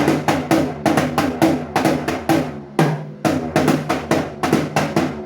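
A drum beaten rapidly with a drumstick, about four strikes a second, each strike ringing with a low tone, with a short break about three seconds in.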